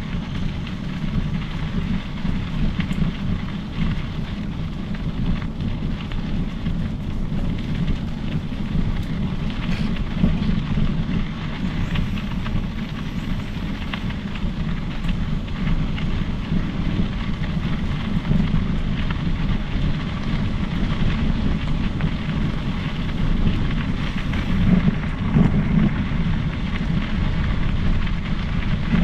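Riding noise from a Specialized Epic Pro mountain bike on a trail: a steady low rumble of wind on the microphone and tyres rolling over the surface, with scattered small ticks and rattles.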